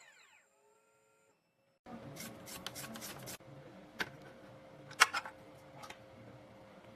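2M2 Tank 2 Pro CNC key cutting machine's cutter spindle spinning down with a falling whine as the cut finishes. After a short silence comes a series of sharp clicks and knocks, the loudest about five seconds in.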